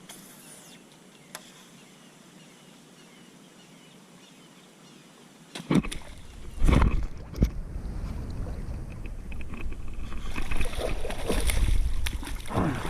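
Water splashing and sloshing around a fishing kayak, with knocks on the hull. It is quiet at first. About six seconds in the splashing starts, with two sharp knocks, and it grows louder near the end.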